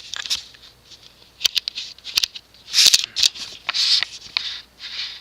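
Irregular rustling with scattered sharp clicks.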